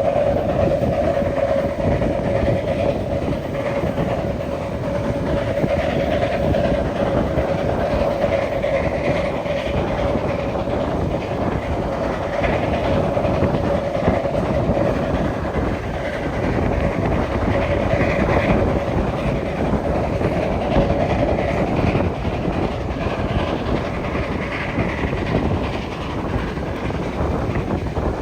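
Steam-hauled train running along the track: a steady rolling rumble with a constant hum and the clickety-clack of the wheels.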